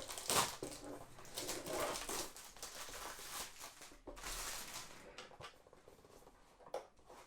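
Cardboard box of a model airplane being handled and opened: rustling and scraping with scattered light clicks and knocks, thinning out after about five seconds.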